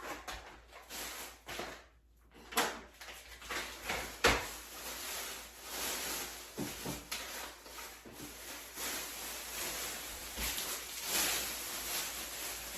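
Handling noise from a small storage bin being unpacked and looked over: rustling and scraping with scattered knocks. Two sharper knocks come about a second and a half in and about four seconds in.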